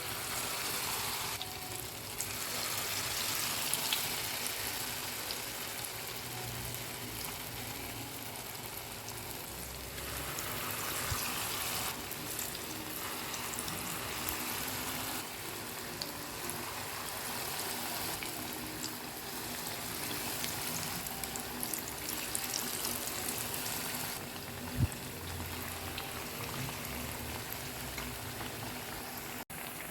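Bakwan vegetable fritters frying in hot oil: a steady sizzle with fine crackling that swells and eases in stretches. A single sharp knock about 25 seconds in.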